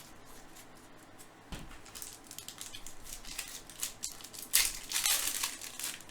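Crinkling and rustling of a trading card pack's foil wrapper being torn open and the cards handled, loudest near the end, with a soft knock early in.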